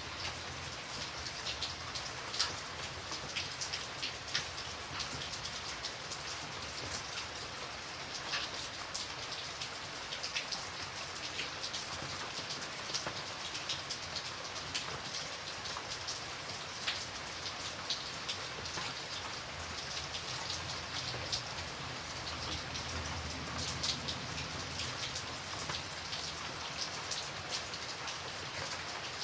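Steady rain with many separate drops tapping on a surface, as a continuous hiss with scattered sharp ticks.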